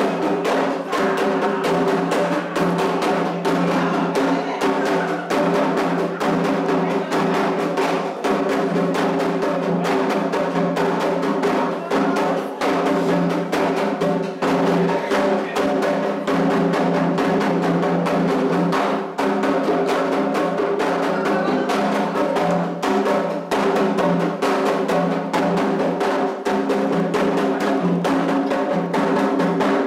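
Candomblé atabaque drums playing a toque for Omolu: dense, continuous hand drumming with rapid strokes over a steady ringing drone.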